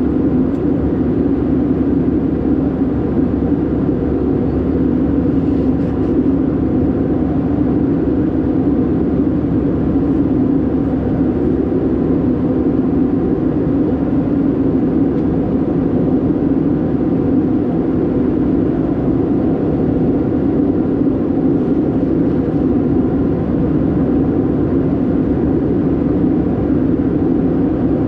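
Steady cabin noise of an Airbus A319-112 in flight, heard from a window seat: the low, even drone of its CFM56 engines and the airflow over the fuselage.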